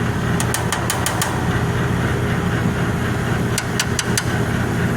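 1965 Sears Coldspot 18,500 BTU window air conditioner running, with a steady low hum from its fan and compressor. Two short runs of quick, light ticks sound over it, one in the first second and one about four seconds in.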